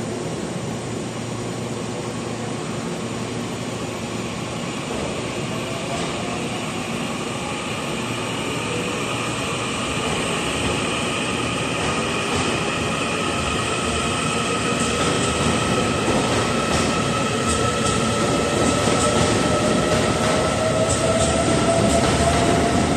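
TRAIN SUITE Shiki-shima pulling out slowly, its traction whine rising gradually in pitch and growing louder as it gathers speed. Wheel clicks over rail joints join in during the last third.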